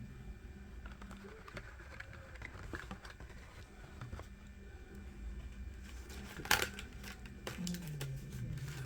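Quiet handling noise from diecast toy trucks being picked up and set down: faint rustling and small clicks, with one sharper click about two-thirds of the way through.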